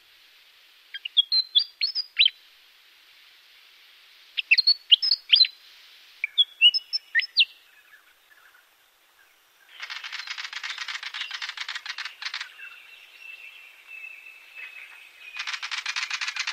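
Bird calls: three quick clusters of sharp chirps sweeping up and down. From about ten seconds in a fast, even buzzing rattle takes over, with a thin steady whistle running under it in the later part.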